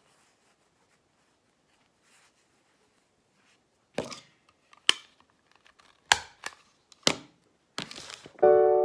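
A hand stapler clicking sharply five or six times as folded cotton pads are stapled, with a brief rustle of the pads; piano music begins near the end.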